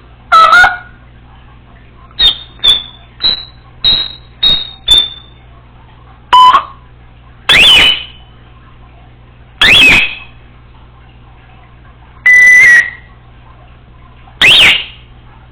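Congo African grey parrot whistling and calling in a string of short, loud, separate calls. Early on comes a quick run of six short high whistles. Later come single louder calls, one of them a flat held beep-like tone that sounds like an alarm.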